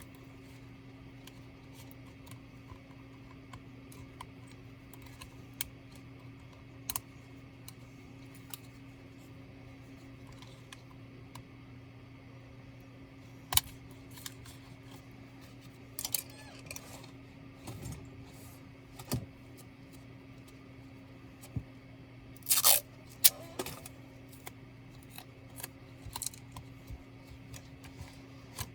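Scattered small clicks and taps of tools and plastic or metal laptop parts being handled during disassembly, with a quick cluster of louder clicks a little over three-quarters of the way through, over a steady low electrical hum.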